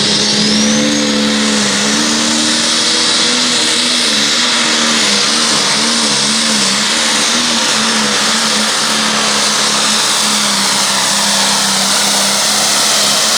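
Turbocharged diesel pulling tractor engine at full throttle under the load of a weight-transfer sled: one steady engine note that wavers up and down for a few seconds midway, with a loud high hiss over it.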